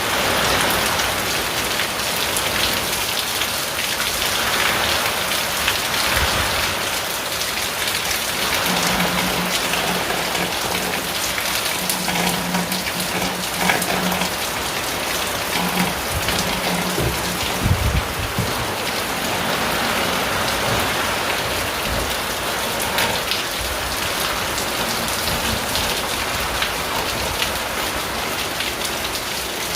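Steady heavy rain drumming on a tin roof, a dense hiss of countless drops with a few louder low thumps near the middle.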